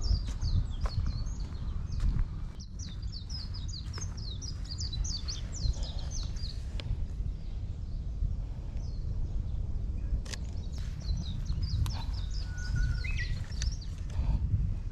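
A small bird singing quick runs of short, high, falling chirps in two spells, over a steady low rumble of wind on the microphone, with a few sharp clicks and steps.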